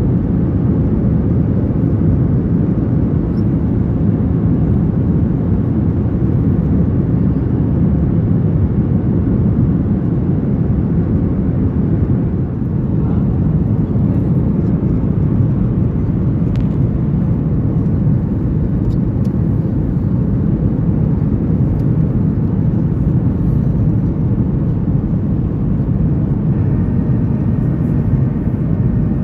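Steady rumble of a Boeing 737-900ER heard inside the cabin: its CFM56-7B engines and the air around the fuselage making an even, unchanging low roar.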